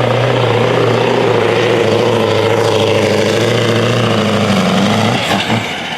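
Pulling truck's engine running hard under the load of the sled, holding a steady note, then sagging and dropping off about five seconds in as the run ends.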